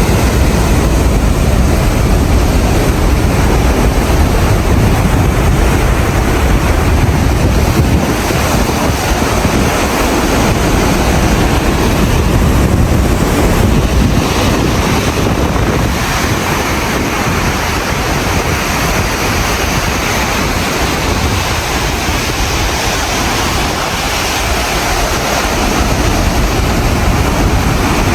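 Gale-force wind buffeting the microphone over rough, breaking seas: a loud, steady rush with a deep rumble, easing slightly midway and picking up again toward the end.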